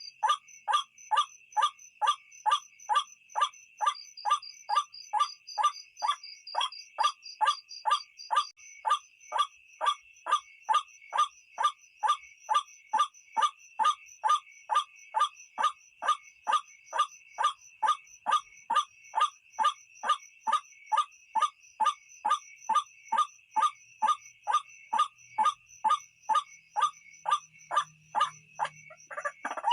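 White-breasted waterhen (ruak-ruak) call as used for a night lure: one short, harsh note repeated evenly about twice a second. A steady insect chirring runs underneath.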